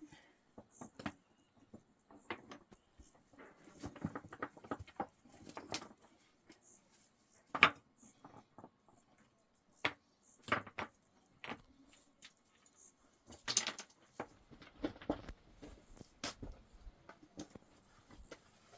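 Irregular clinks and knocks of hard objects, scattered through with no steady rhythm; the sharpest knock comes a little under eight seconds in.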